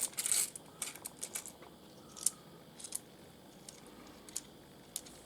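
Small pieces of rough opal clicking and scraping against each other as they are handled: a short scrape at the start, then a string of light, separate clicks.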